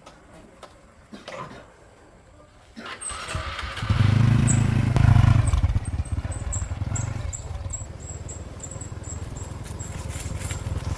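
An engine running, coming in about three seconds in and loudest a second or two later, with short high chirps repeating over it.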